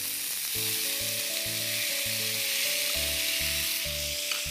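Chopped tomatoes hitting hot ghee in a frying pan with cumin, green chilli and ginger: a steady sizzle that starts at once as they are tipped in, with light stirring.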